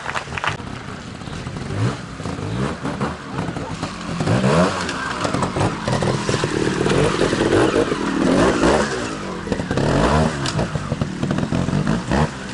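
Trials motorcycle engine revving in repeated short blips as the bike picks its way up a rocky, wet stream bed, the pitch rising and falling again and again. It gets louder from about four seconds in.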